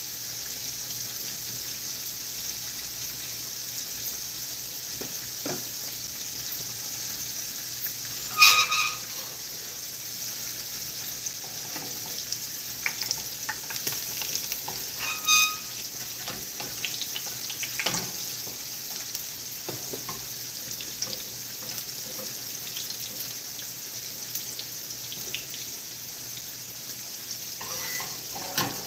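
Cornbread patties and fish frying in hot oil in skillets: a steady sizzle with scattered small pops. Two ringing metal clinks, about 8 and 15 seconds in, as a utensil strikes the pan while the patties are turned.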